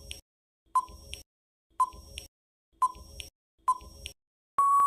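Countdown-timer sound effect: short electronic beeps about once a second, then a longer steady beep near the end signalling that time is up.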